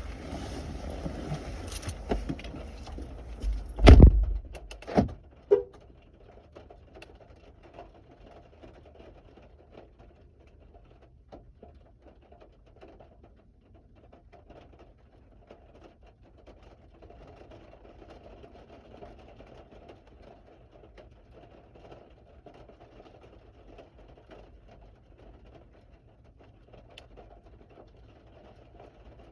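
Rustling and jangling, then a car door shutting with a loud thump about four seconds in and a smaller knock a second later. After that there is a faint steady hum inside the closed car.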